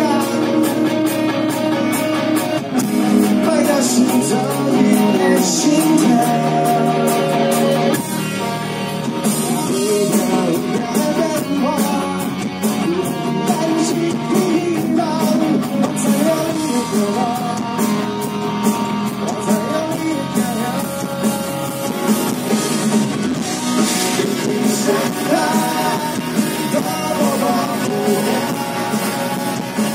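Live rock band playing a song: a singer over guitars and a drum kit, at full volume.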